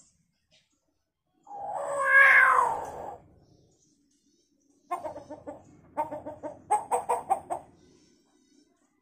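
Hill myna calling: one drawn-out, harsh call with several pitches stacked, then after a pause a quick run of short, clipped notes, about six a second.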